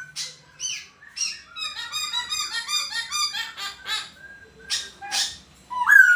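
A songbird in full song: a fast, varied run of chirping notes, then a few sharp notes and a clear rising whistle near the end.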